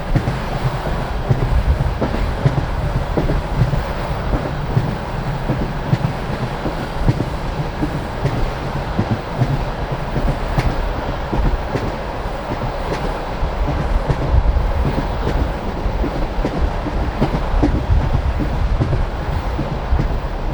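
Passenger train carriage running at speed, its wheels clattering over the rail joints above a steady rumble of wheels on track.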